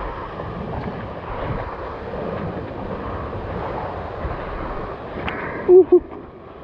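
Steady rushing roar of a waterfall. Near the end a person gives a short, loud two-note vocal call.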